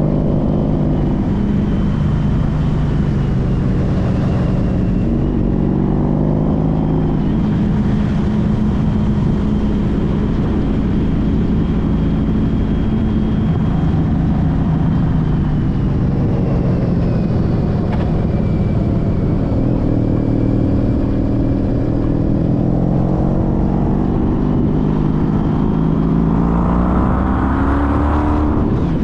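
Honda CTX1300's V4 engine running on the move, with wind rush over it. The engine note sags and rises several times and climbs near the end as it accelerates.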